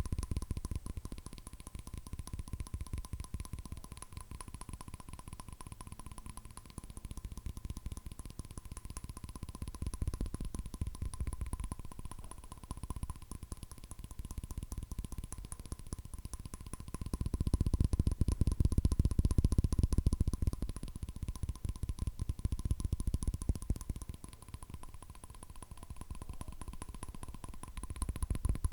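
Fast fingernail tapping on hard objects, a dense stream of quick clicks that swells and fades in waves, loudest a little past the middle.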